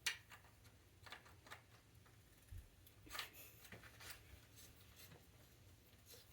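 Faint scattered clicks and rustles of small parts and tools being handled, over a low steady hum.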